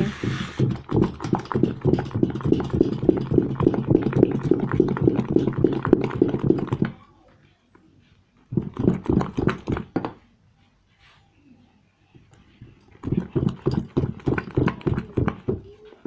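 Homemade liquid car-wash soap being stirred by hand in a container, with quick rhythmic strokes about four a second. It comes in three spells: a long one, a short one about halfway, and another near the end, with pauses between.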